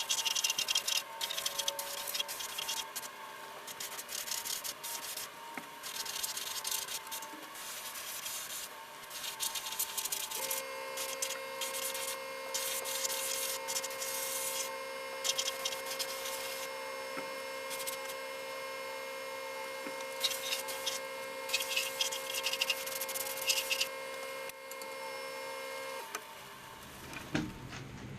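Abrasive rubbing strokes on the steel frame, coming in short irregular bouts, with a steady hum running under them from about a third of the way in until near the end.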